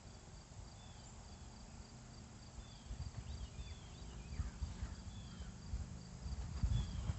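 Insects chirping, a steady train of short high-pitched pulses, with a few short falling chirps. Faint low knocks of handling come in during the second half.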